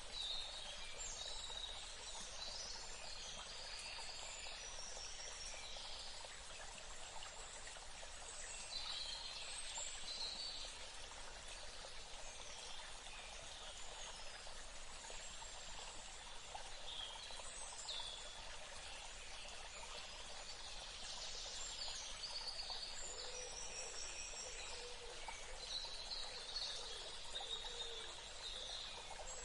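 Steady rush of running water with birds chirping over it, in short spells of high calls that come every few seconds.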